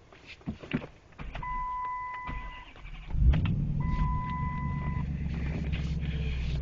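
Dodge Challenger SRT8's Hemi V8 starting: a few clicks, then cranking, and the engine catching about three seconds in with a brief flare before settling into a steady idle. A steady electronic chime sounds twice.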